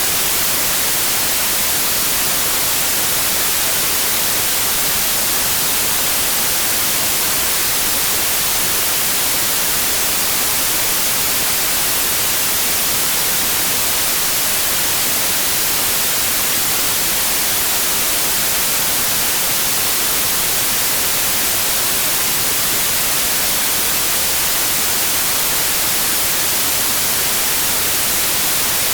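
Steady white noise: an even, unbroken hiss, bright and hissy rather than rumbly, with no tone or change in it.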